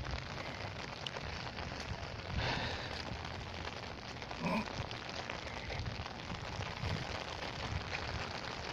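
Steady rain falling, a continuous even hiss with patter on the umbrella overhead.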